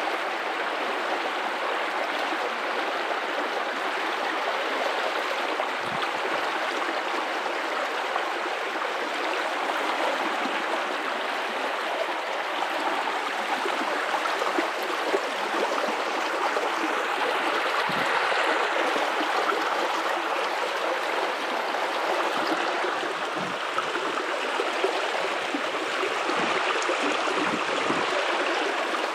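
River water running over rocks: a steady, full rush with gurgles and the odd low splash.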